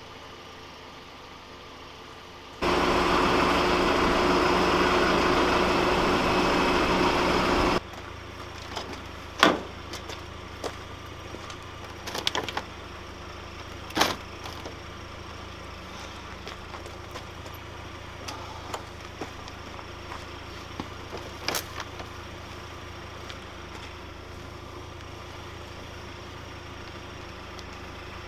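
Motor vehicle running with a steady low hum. A much louder, noisy stretch cuts in abruptly a few seconds in and stops just as suddenly about five seconds later. Scattered sharp clicks and knocks follow.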